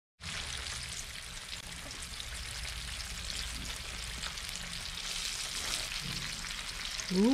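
Crappie dredged in seasoned flour deep-frying in hot grease: a steady sizzle with fine crackling.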